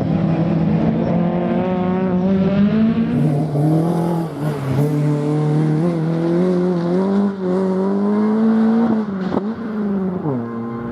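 Rally car engine driven hard, its pitch climbing and dropping back several times through gear changes. There is a sharp crack about nine seconds in, and the engine note falls away near the end as the car lifts off.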